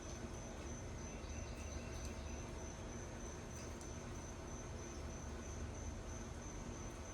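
Crickets trilling steadily in one high, unbroken tone over a low, steady rumble, with a few faint ticks.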